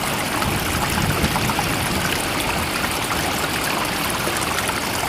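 Steady rushing, trickling water, an even unbroken wash with no rise and fall of waves.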